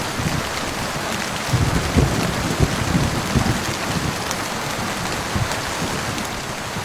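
Heavy rain falling steadily: a dense, even hiss with irregular low thuds of drops striking a surface.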